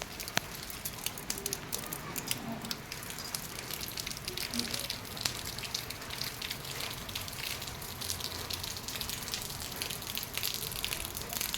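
Monsoon rain falling steadily, a dense spread of irregular drop ticks over a constant hiss.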